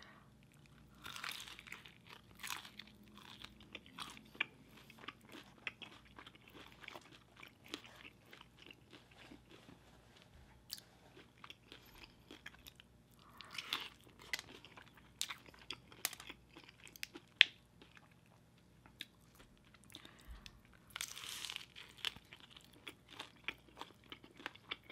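Close-miked chewing and crunching of extra crispy fried chicken dipped in cheese sauce. Louder crunchy bites come about a second in, again midway, and once more near the end, with many small clicks of chewing in between.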